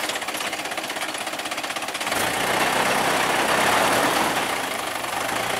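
Truck engine running with a rapid, even knocking, working harder from about two seconds in as the winch pulls the stuck truck.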